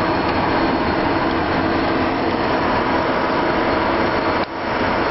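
Cessna Citation CJ2+ business jet's twin Williams FJ44 turbofan engines running, a steady loud rush with a few steady tones through it, dipping briefly near the end.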